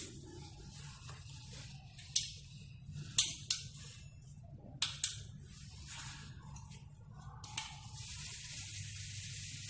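Sharp clicks and knocks from handling tools and parts, about seven in all, then a steady hiss that begins about eight seconds in.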